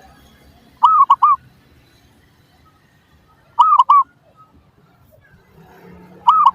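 Zebra dove (perkutut) cooing: three short phrases, each of about three quick rounded notes, repeated roughly every two and a half to three seconds.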